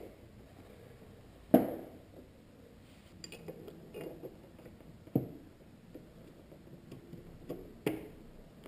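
Hard knocks and clicks of parts being handled while a car headlight assembly is worked loose: three sharper knocks, the loudest about a second and a half in, with lighter clicks between them.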